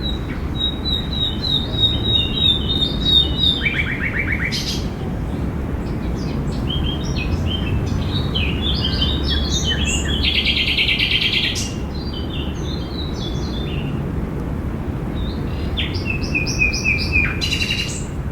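Several songbirds chirping and calling over a steady low rumble. A rapid trill comes about four seconds in, and a dense burst of chirping comes around ten to twelve seconds in.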